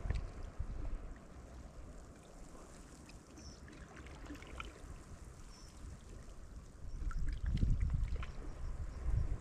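Sea water sloshing and trickling among shoreline rocks, with scattered small clicks. Low gusty rumbling from wind on the microphone swells about seven seconds in.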